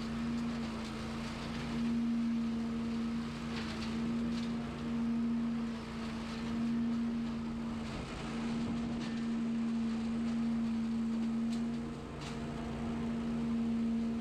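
Small petrol engine of lawn equipment running at a steady speed, its loudness swelling and fading every couple of seconds.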